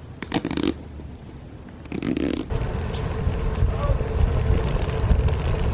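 A couple of short scraping handling noises, then, from about two and a half seconds in, a steady low rumble of wind on the camera microphone while riding a bike.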